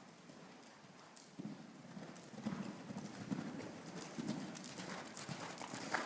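A horse's hoofbeats, a run of low thuds that start about a second and a half in and grow louder as the horse comes closer.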